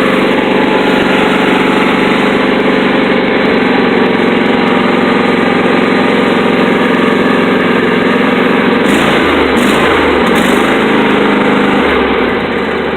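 An engine running steadily at idle on a cold start, with its exhaust pipe taken off. About nine seconds in the running turns uneven with a rough, wavering low end, and near the end it begins to fade.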